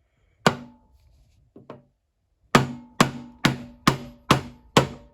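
Hammer blows tapping a keyed pulley onto a pre-unit Triumph crankshaft. One strike, two light knocks, then a steady run of strikes about two a second, each with a brief metallic ring.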